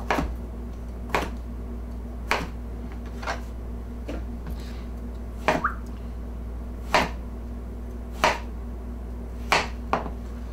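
Kitchen knife cutting a raw pear into chunks, the blade knocking on the cutting board about ten times, roughly once a second, over a low steady hum.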